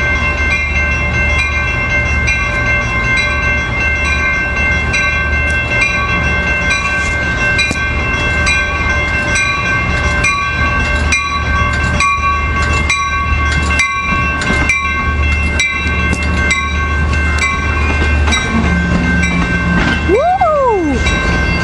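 Amtrak train passing close by, its EMD F59PHI diesel locomotive running with a steady low rumble. The wheels click irregularly over rail joints and switches, and a steady high-pitched whine carries over it.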